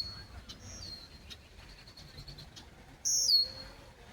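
Red-winged blackbird calling twice, each call a short buzzy burst that drops into a thin, high, held whistle. The first call, just under a second in, is fainter; the second, about three seconds in, is loud.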